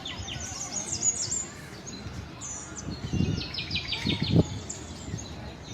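Many small birds chirping and twittering in quick, overlapping high calls. Two short low knocks or thuds break in about three and four seconds in, the second the loudest sound.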